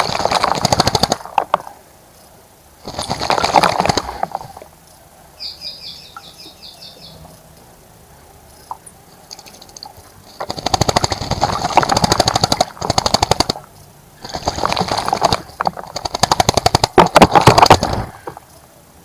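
A bird bathing in a birdbath, splashing and fluttering its wings rapidly in the water in four bouts of one to three seconds each. Between the first bouts a bird gives a quick run of about eight high chirps.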